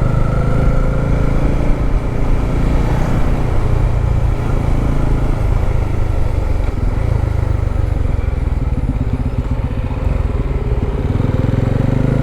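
Motorcycle engine running at a steady riding speed, heard from the bike, with road noise underneath.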